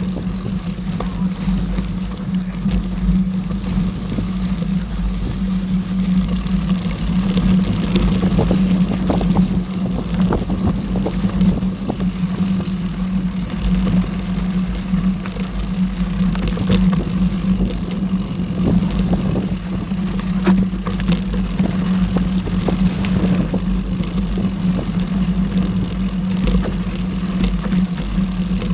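Mountain bike rolling along a dirt forest trail: a steady rumble of tyre and riding noise with frequent clicks and rattles from the bike.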